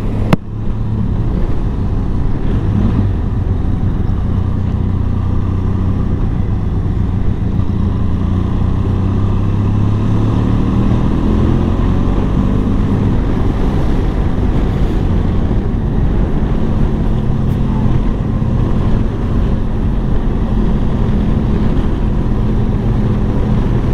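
Benelli TRK adventure motorcycle engine running steadily while riding. Its pitch rises for a few seconds about ten seconds in as it picks up speed.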